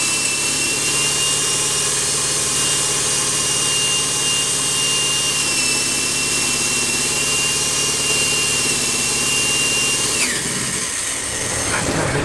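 Power tool motor running steadily with a high whine, then switched off about ten seconds in and winding down.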